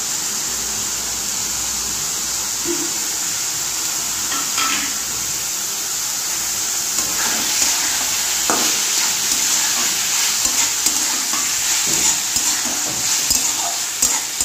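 Red amaranth greens and fried prawns sizzling in a kadai with a steady hiss, while a metal spatula stirs and scrapes against the pan. The clicks and scrapes of the spatula come more often in the second half.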